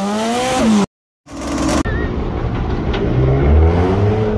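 A pitched, rev-like intro sound that climbs, falls and cuts off abruptly, then a moment of silence. After that a car engine runs with a low, steady sound, its pitch slowly rising near the end.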